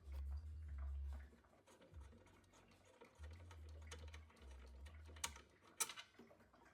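Light clicks and taps of parts and tools being handled on a boiler, with a couple of sharper clicks about five and six seconds in, over low rumbling thuds.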